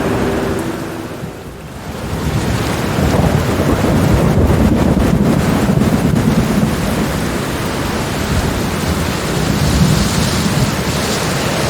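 Thunder rumbling low and long over steady rain, swelling in about two seconds in after a brief lull.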